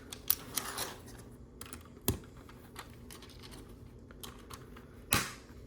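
Small plastic LEGO pieces being handled and sorted, with a few sharp clicks and short rattling rustles as parts are picked out of a pile.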